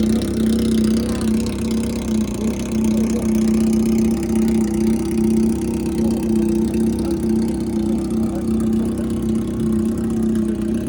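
Honda CBX400F's air-cooled inline-four engine running at a steady speed through its exhaust, a loud even note with no revving.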